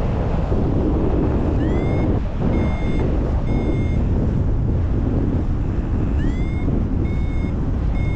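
Paragliding variometer beeping: short high beeps a bit under a second apart, twice opening with a quick rising chirp, pausing for about two seconds in the middle; the beeps signal that the glider is climbing in lift. Under them, a steady loud rush of wind on the microphone.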